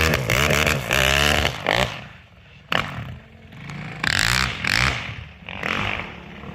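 Snowmobile engine revving up and down in quick blips, then dropping away after about two seconds; a sharp clack and some scraping and rustling follow.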